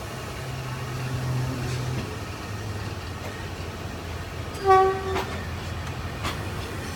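Diesel locomotive engine running steadily with a low hum. A brief single horn toot sounds about two-thirds of the way in, followed by a couple of sharp metallic knocks.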